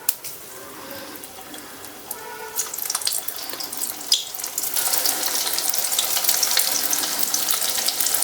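Coated baby corn pieces frying in hot oil, sizzling and crackling. Faint at first, the sizzle grows louder about halfway through as the pieces go into the oil, then holds steady.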